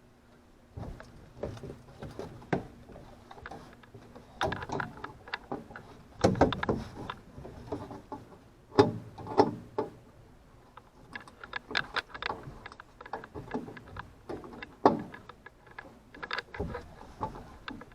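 Irregular knocks, clicks and clatter of hands working with tools and hardware, the loudest knocks about six, nine and fifteen seconds in, over a faint steady hum.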